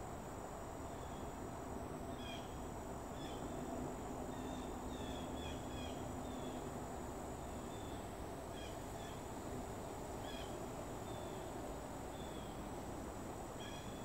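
Scattered short bird chirps over steady outdoor background hiss, with a thin, high, steady whine running underneath.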